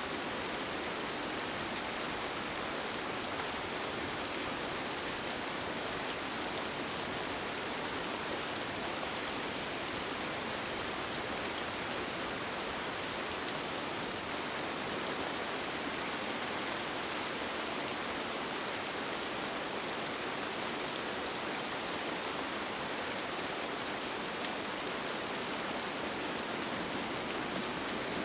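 Steady rain falling on a tent, a dense even hiss with scattered faint drop ticks.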